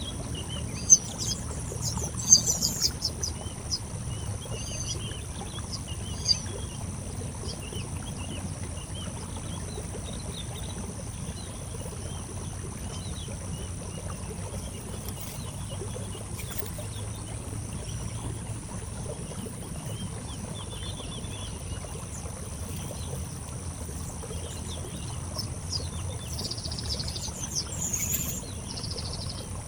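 Small birds chirping in short, scattered calls, busiest near the start and near the end, over a steady high whine and a low rumble. A few sharp clicks sound in the first several seconds.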